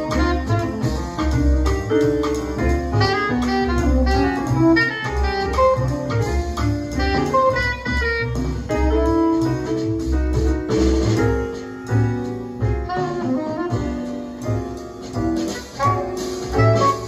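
Small-group jazz recording: a saxophone plays a quick, busy line over piano and a bass line.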